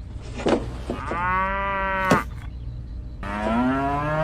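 A cow mooing twice, two drawn-out calls of about a second each, with sharp clicks between and after them.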